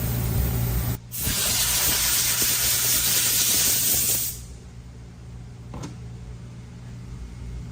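A pressurised spray hissing in one long blast, broken for an instant about a second in and cutting off about four seconds in, during transmission valve-body work.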